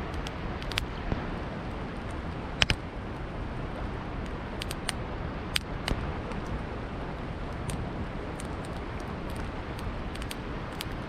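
Campfire crackling, with scattered sharp pops, the loudest about two and a half seconds in, over the steady rush of a flowing river.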